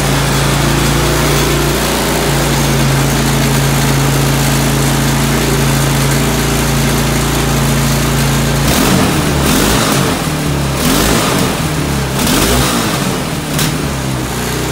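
Cold-started ATV engine running with a steady hum, then about nine seconds in it turns rough and uneven with several sharp pops, one of them a small backfire near the end.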